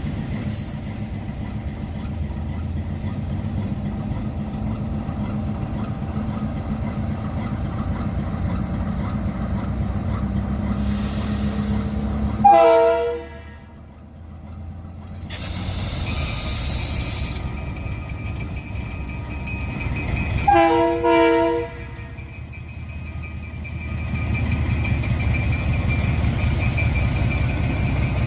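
Freight train's diesel locomotive running with a steady low rumble. Its horn sounds once about twelve seconds in, then two short blasts come about twenty seconds in. A brief hiss is heard in between.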